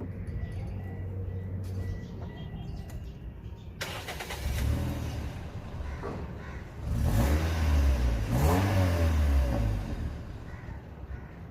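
Toyota 1NZ-FE 1.5-litre inline-four petrol engine running steadily, then revved: a short rev about five seconds in and a louder, longer rev from about seven to ten seconds that rises in pitch and falls back to idle.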